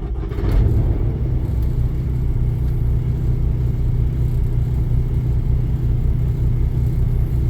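A Kenworth T680 truck's PACCAR MX-13 inline-six diesel engine idling with a steady low rumble, a little louder from about half a second in.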